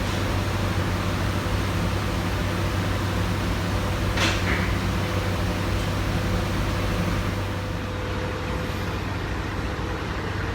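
Steady low hum of an idling diesel truck engine in a truck shop, with a sharp click about four seconds in. The level drops a little about two-thirds of the way through.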